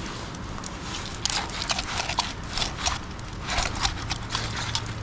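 A knife cutting through a bass's skin and rib bones as it is filleted, a run of irregular crunching, crackling strokes that starts about a second in.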